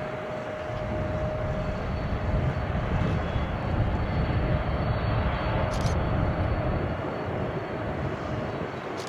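Jet airliner engines rumbling, with a faint steady whine. The rumble grows louder about two seconds in and eases off near the end.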